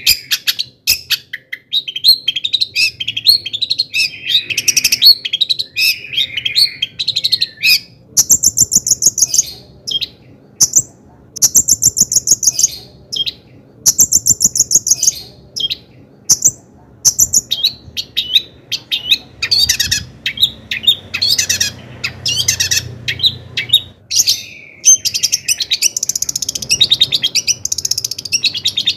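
Long-tailed shrike (cendet) singing: a fast, varied chatter of short sharp notes and high rapid trills, in quick phrases with brief pauses between them.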